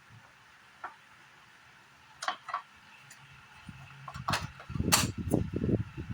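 Handling noise during repair work: a single sharp click about a second in, two quick clicks a little after two seconds, then a flurry of louder knocks and low thumps near the end.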